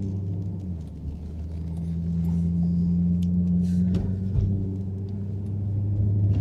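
Jaguar XK8's V8 with a Stage 2 Adamesh sports exhaust, heard from inside the cabin, rumbling low at light throttle. The note eases about a second in, then lifts a little and holds steady.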